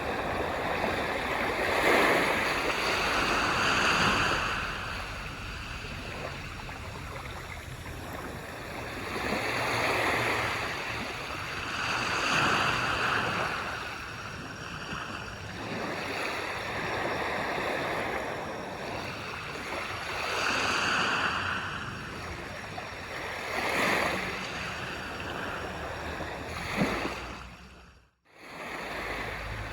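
Small waves breaking and washing up a beach, the surf swelling and ebbing every several seconds. Near the end there is a short click and the sound briefly drops out before resuming.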